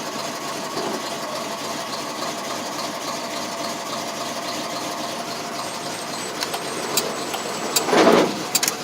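1988 GMC 6000 box truck's 454 big-block V8 idling steadily and smoothly, shortly after a cold start. A few sharp clicks near the end and a brief louder sound about eight seconds in.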